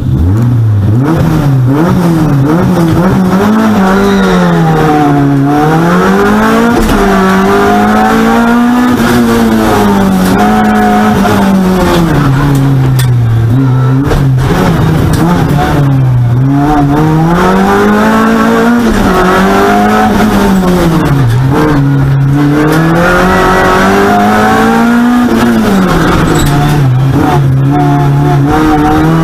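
Renault Clio competition car's engine heard from inside the stripped cabin, revving up hard and dropping back again and again in long swoops a few seconds apart as the car accelerates and brakes between slalom markers.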